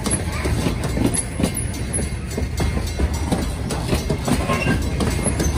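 Freight train of loaded DODX military flatcars rolling past: a steady rumble of steel wheels on rail with irregular clicks and clanks.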